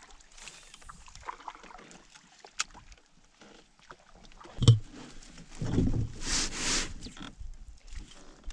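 A canoe being handled on the water: small clicks, then a loud hollow knock against the hull about halfway through, followed by a short rush of water-like noise.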